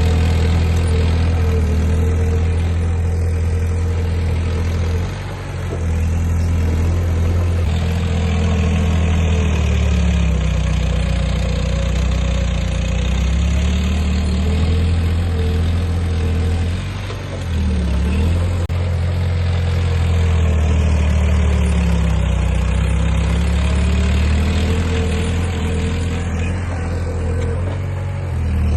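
Diesel engine of heavy earthmoving machinery running steadily, its low hum sagging and recovering in pitch now and then. The level drops briefly twice, about five and a half and seventeen and a half seconds in.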